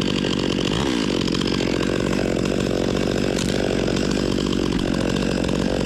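Husqvarna T542i XP battery top-handle chainsaw running steadily under load, cutting through cottonwood.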